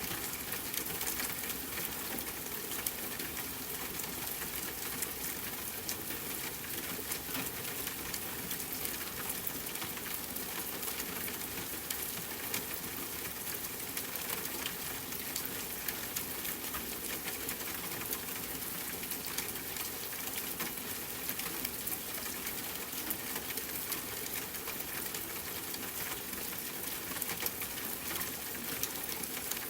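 Rain falling steadily, layered with a wood fire crackling: a constant hiss of rain under frequent small sharp pops.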